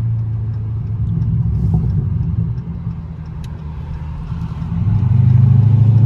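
The straight-piped 392 HEMI V8 of a Dodge Charger Scat Pack running at low revs with a steady low exhaust drone. The drone eases off in the middle and grows louder again about five seconds in.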